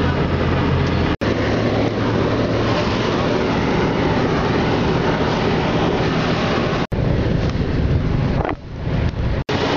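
Bus engine and road noise heard from inside the cabin while driving uphill: a steady low hum under a wide rushing noise, cut by three very brief dropouts.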